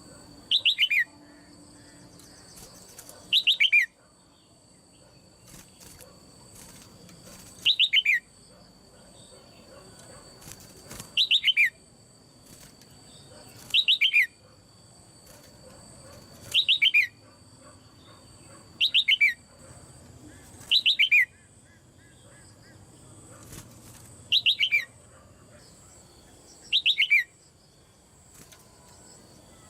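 Red-whiskered bulbul, a caged female, repeating a short call: a quick run of falling notes, about ten times at intervals of two to four seconds.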